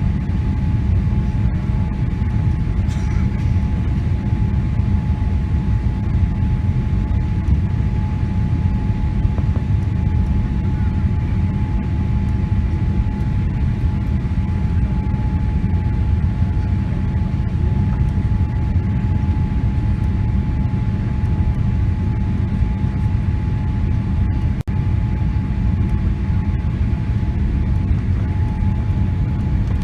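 Steady low rumble of engine and airflow noise inside the cabin of a Boeing 777-300 airliner, with a thin steady whine above it.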